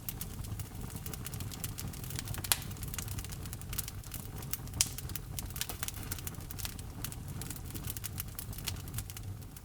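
Wood fire crackling in a fireplace: rapid, irregular crackles and pops over a low, steady rush of flame. Two sharper pops stand out, about two and a half seconds and five seconds in.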